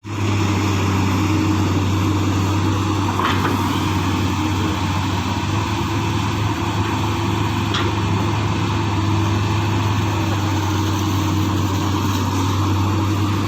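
Excavator's diesel engine running at a steady pace, a low even drone that holds throughout, with a faint click about three seconds in and another near eight seconds.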